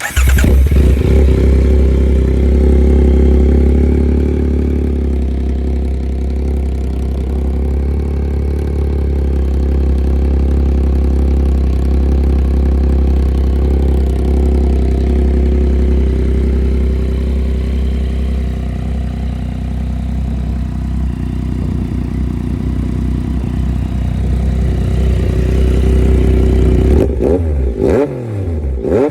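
Yamaha XSR900's 890 cc inline-three engine through a RaceFit Growler X exhaust, starting up at the very beginning and then idling steadily for most of the time. Near the end the throttle is blipped several times, sending the revs quickly up and down.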